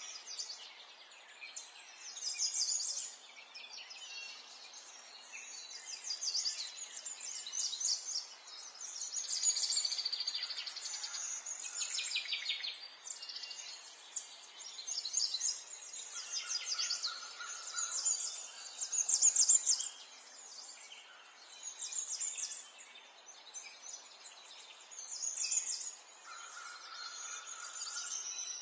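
Several songbirds chirping and trilling in quick, high-pitched bursts every second or two, over a faint background hiss.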